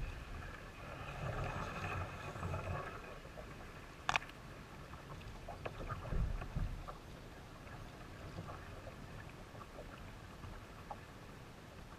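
Kayak being paddled through shallow water: soft paddle strokes and water movement, with a single sharp click about four seconds in and a few small ticks.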